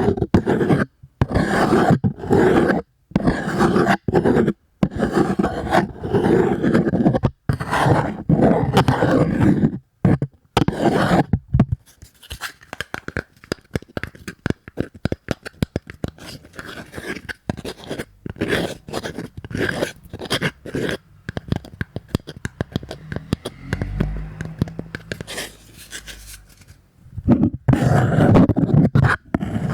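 Cardboard scratched and rubbed close to the microphone in a run of noisy strokes with short gaps between them. About twelve seconds in it turns to lighter, quicker scratching, and the louder strokes return near the end.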